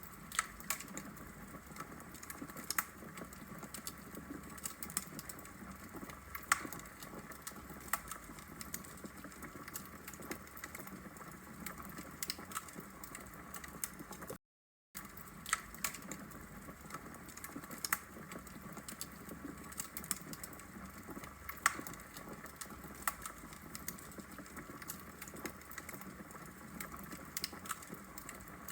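Wood logs burning in a fireplace, crackling with frequent sharp, irregular pops and snaps over a low steady hiss. The sound cuts out for a split second about halfway through.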